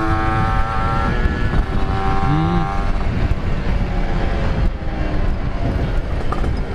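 Yamaha RX-King two-stroke single running at a fairly steady speed through a Cobra-model exhaust, with a dense low rumble of wind and road noise underneath.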